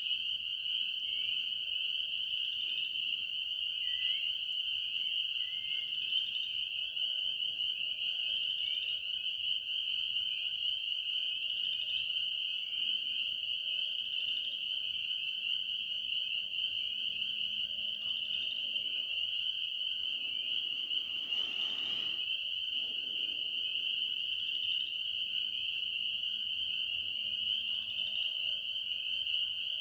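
Dense, steady night chorus of calling frogs, a high pulsing trill that never lets up. About 21 seconds in, a brief noisy rustle of about a second cuts across it.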